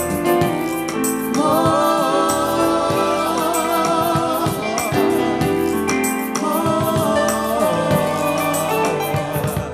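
Live gospel worship song: voices hold long sung notes over instrumental accompaniment with regular sharp strikes.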